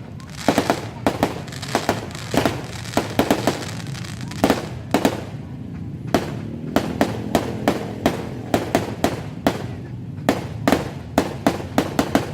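New Year fireworks going off in a rapid, irregular series of sharp bangs and cracks, several a second.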